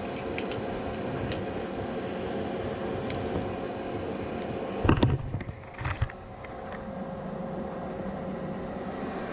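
Gas furnace running with its burners off: a steady fan noise with a faint steady hum, as it cools down. A couple of loud knocks come about five and six seconds in, with small clicks here and there.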